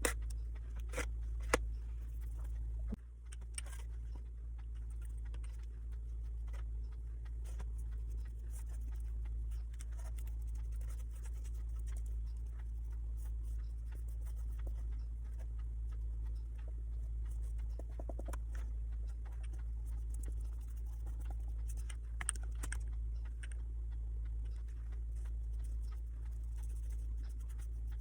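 Steady low hum with faint scratching and a few light clicks and taps of small handwork at a table. A sharper tick comes about a second and a half in.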